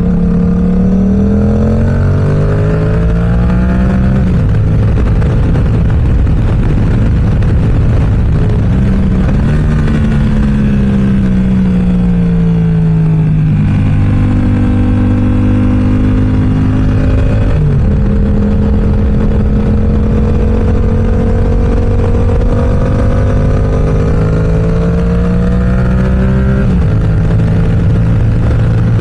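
Yamaha R7's 689 cc parallel-twin engine through an M4 aftermarket exhaust, ridden hard: the pitch climbs through the revs with quick drops at gear changes (a few seconds in, near the middle and near the end), falls steadily for a few seconds as the rider rolls off, and holds steady on short cruising stretches.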